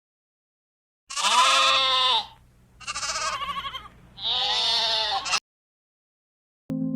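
A sheep bleating three times, each bleat about a second long with a wavering pitch; the middle bleat is quieter.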